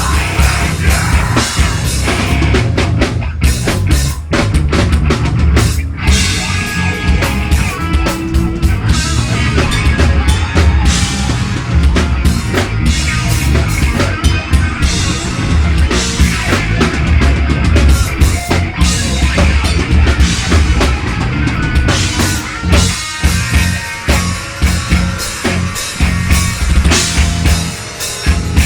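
Live metal band playing loudly, the drum kit to the fore with pounding bass drum and snare over the band.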